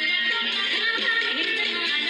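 Live band music with a plucked-string melody line over steady held chords.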